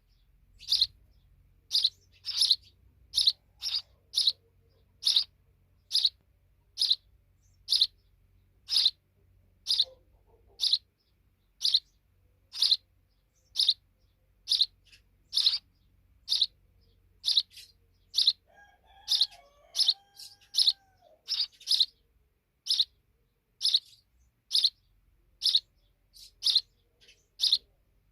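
Sparrow chirping: short, sharp single chirps repeated about once a second, sometimes in quick pairs.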